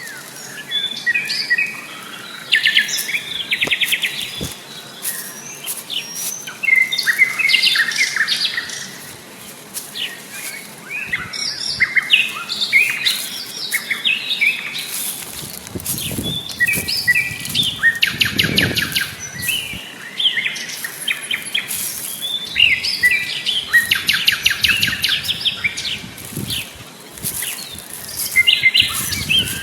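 Several birds calling at once, with short chirps and fast rattling trills overlapping all the way through. A low rumble runs underneath for a few seconds around the middle.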